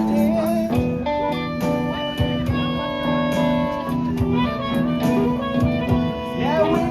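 Live band playing an instrumental break, guitar to the fore, over a steady beat, with no singing.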